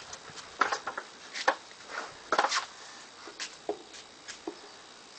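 Handling noise as a wooden block and tools are picked up and set in place: a string of short knocks and clicks, loudest in the first half and sparser and fainter toward the end.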